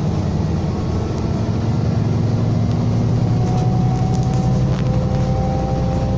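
Scania K320 bus's 9.3-litre DC9 five-cylinder diesel engine running under way, a steady rumble. About halfway in, a steady whine joins it.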